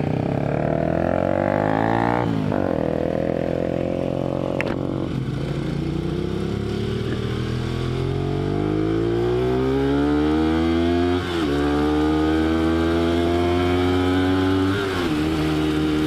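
Motorcycle engine pulling away and accelerating. Its pitch climbs steadily, then drops at each of three upshifts before rising again.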